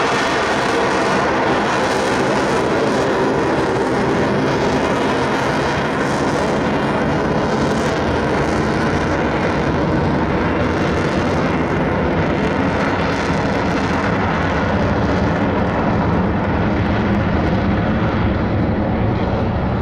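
F-22 Raptor's twin Pratt & Whitney F119 afterburning turbofans, a loud continuous jet roar during a flying display. The sharp top end thins out about two-thirds of the way through, leaving a duller rumble.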